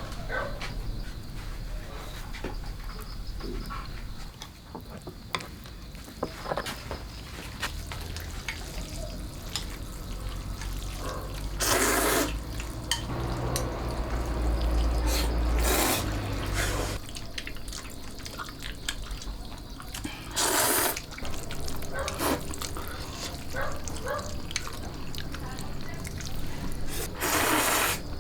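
Water splashing and pouring in a few short spells, with small clicks and knocks in between.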